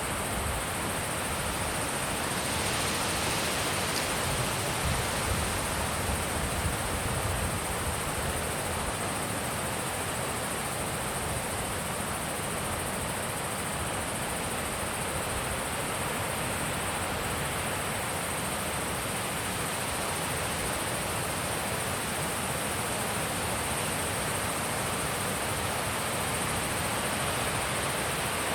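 Steady wind blowing in open country, with a gusty low rumble of wind buffeting the microphone, strongest in the first several seconds.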